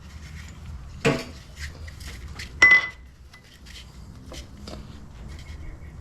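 Metal tools and parts clinking and clanking on a workbench: small clicks throughout, a sharp clank about a second in and a louder one near the middle that rings briefly.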